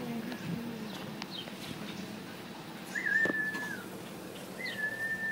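Two long, level whistled notes, each just under a second, the second starting about a second and a half after the first ends, with a few faint short chirps between them.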